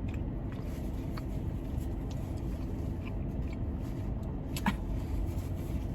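Steady low hum of a car's air conditioning running, heard inside the cabin, with a few soft clicks and one sharper click about three-quarters of the way through.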